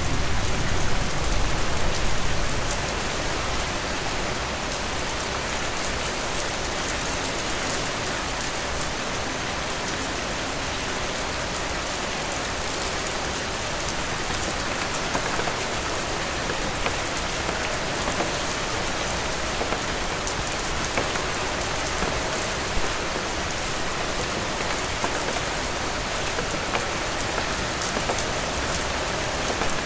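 Heavy rain falling steadily on a roof: a dense, even hiss scattered with the ticks of single drops. A low rumble in the first couple of seconds fades out.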